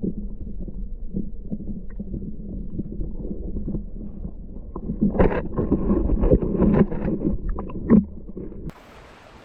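Muffled low rumble with many small knocks and scrapes, busier and louder in the middle, as heard through a camera's housing or under water. Near the end it cuts to the even rush of flowing creek water.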